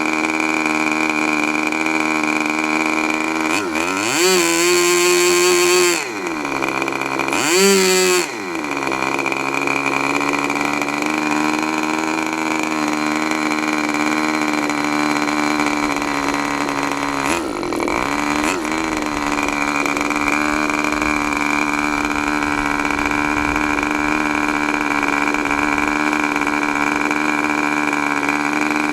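K&B .40 R/C two-stroke glow model airplane engine running steadily at idle. It revs up twice, for about two seconds at four seconds in and briefly again near eight seconds, each time dropping back to idle. There is a short wobble in its note near eighteen seconds.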